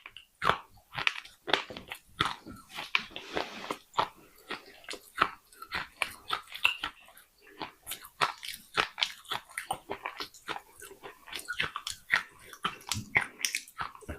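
A person biting into and chewing pieces of baked clay pot close to the microphone: rapid, irregular crunching and crackling.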